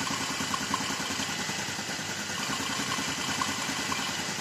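Yamaha LC135 single-cylinder four-stroke motorcycle engine idling steadily with its filter removed to free up power, which makes it run noisier than it does with the filter fitted.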